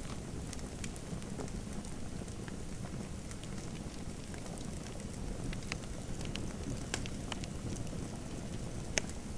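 Wood fire crackling in a fireplace: a steady low rush with irregular sharp pops, one louder pop near the end.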